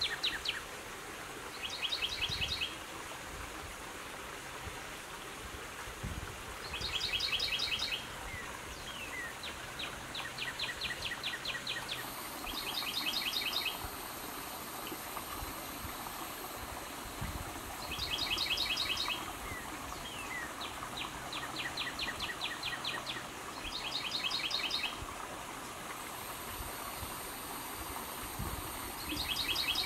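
Songbird singing a short, rapid trill of about a second, repeated every few seconds, with faint short chirps in between. A high, thin, steady buzz comes in about halfway through.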